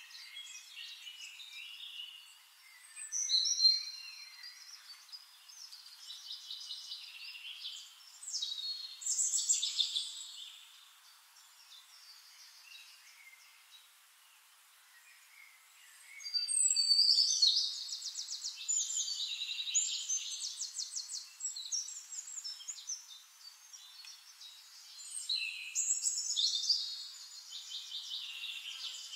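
Birds singing: phrases of high chirps and fast trills every several seconds, with quieter gaps between.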